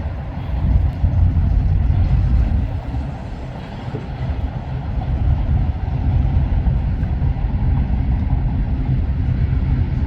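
Freight train passing with a steady low rumble.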